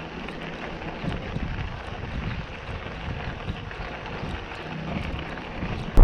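Wind buffeting the microphone over the steady rolling noise of a bicycle moving along a dirt trail.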